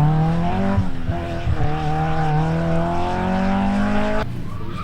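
Rally car engine accelerating hard, its pitch climbing with one gear change about a second in. The engine sound cuts off suddenly near the end.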